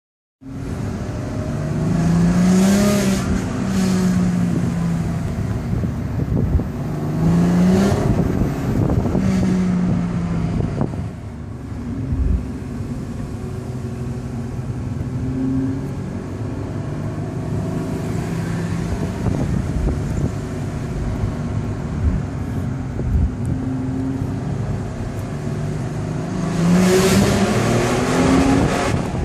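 Mercedes SLK 32 AMG's supercharged V6 accelerating hard through the low gears, its note climbing in pitch several times and falling back between gear changes. It carries a strange noise under acceleration in the first gears below 4000 rpm, which the owner wants identified.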